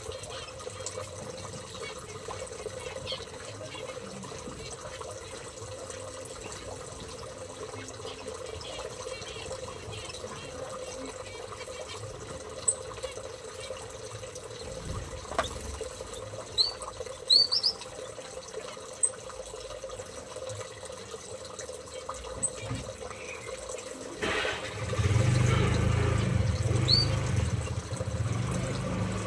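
Aviary birds giving a few short, high, rising chirps over a steady noisy background. About 24 s in, a louder low rumbling noise sets in.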